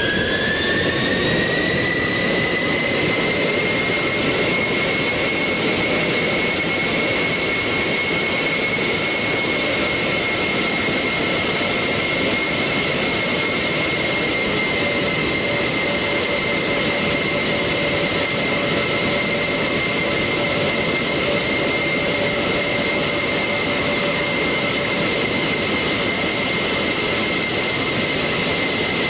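Jet airliner engines running: a whine rises in pitch over the first couple of seconds as the engines spool up, then holds steady over a constant rush.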